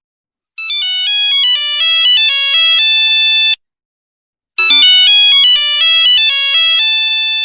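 Mobile-phone ringtone: a short electronic melody of quick stepping notes, played twice with a pause of about a second between.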